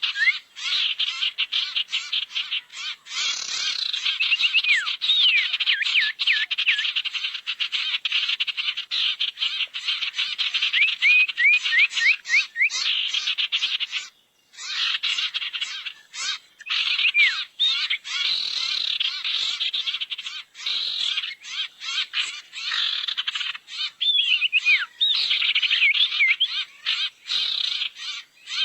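Lure recording of the bird called sirtu: a dense, rapid chatter of chips and clicks with repeated short whistles that sweep up and down, broken by a brief pause about halfway through.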